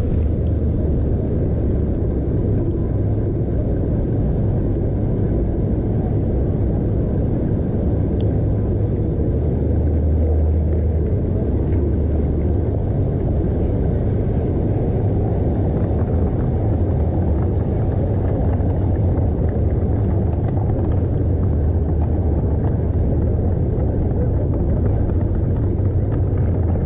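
Steady low rumble of wind and road noise on a chest-mounted GoPro's microphone while riding a bicycle.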